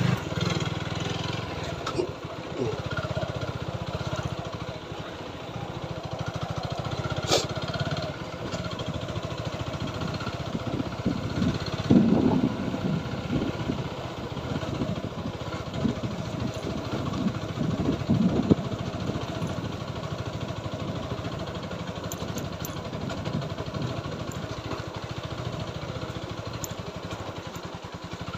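TVS Apache 4V motorcycle running while being ridden, a steady engine hum with irregular rumbling knocks through the middle of the ride.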